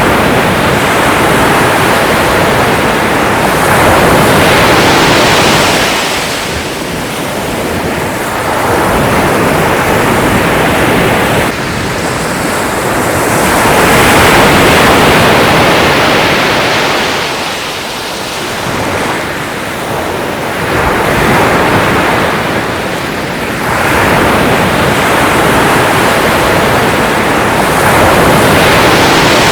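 Sea waves breaking and washing ashore in a continuous loud surf, swelling and fading in repeated surges every few seconds, with some wind noise on the microphone.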